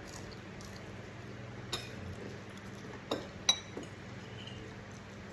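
Cutlery clinking against dishware during a meal: three short clinks, the last ringing briefly.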